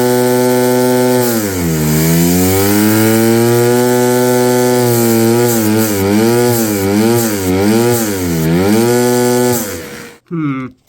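Small high-revving vacuum-powered model engine with 3D-printed parts running, a loud buzzing drone over a steady hiss. Its pitch dips once, then wavers up and down repeatedly as the speed surges, before it winds down and stops near the end.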